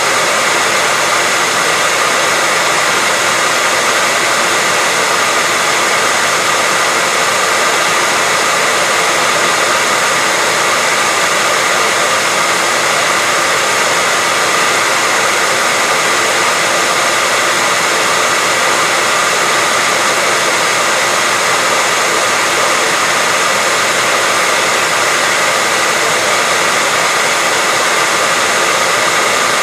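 Hair dryer blowing steadily, a constant whoosh of rushing air with a faint steady whine from its motor, unchanging throughout.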